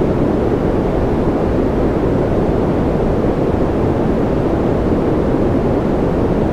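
Steady synthetic sleep noise: an even, unchanging rushing hiss. It is heavier in the low and middle range and thins out toward the top, so it sounds deep rather than sharp.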